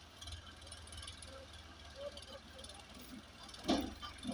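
Tractor engine running as a steady low rumble, with one sharp knock about three and a half seconds in.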